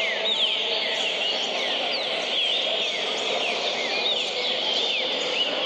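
Green-winged saltator (trinca-ferro) singing a fast, unbroken run of short whistled notes that slide downward, several per second, over a steady background hiss.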